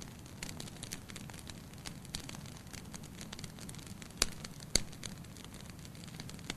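Wood fire in a fireplace crackling over a steady low rumble of flame, with many small irregular snaps and two sharper, louder pops about half a second apart past the middle.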